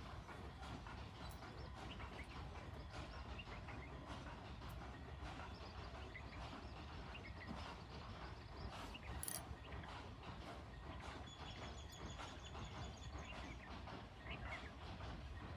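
Water pouring and dripping onto plant leaves, a continuous patter of small irregular taps and splashes, with faint short chirps scattered through it. A steady high trill comes in about two-thirds of the way through and lasts a couple of seconds.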